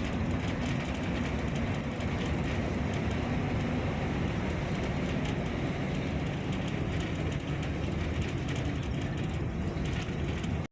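Steady engine and road noise inside a moving long-distance bus, with faint rattles from the cabin.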